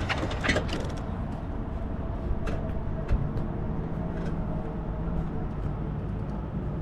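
E-bike on the move: a steady low rumble of tyres and wind, with a few faint steady tones and scattered light clicks or rattles.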